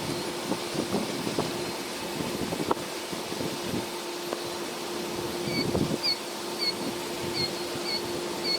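Steady hum, as of a vehicle's fan or idling engine, with a few light knocks. From about five seconds in, a short chirp repeats roughly every half-second.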